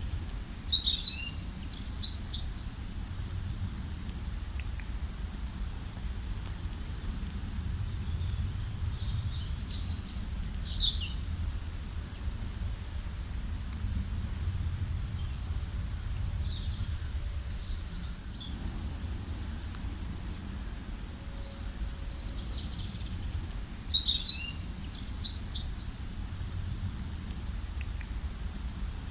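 A songbird singing high, quick chirping phrases four times, about every seven or eight seconds, over a steady low background rumble.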